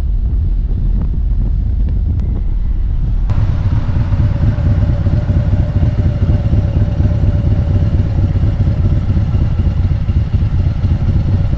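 Motorcycle engine running while riding, with heavy wind rumble on the microphone. About three seconds in the sound changes abruptly at a cut, and a steady hum is heard over the rumble from then on.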